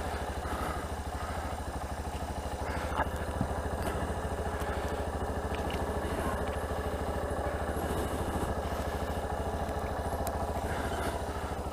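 Yamaha Ténéré 250's single-cylinder four-stroke engine idling steadily, with a couple of small clicks about three seconds in.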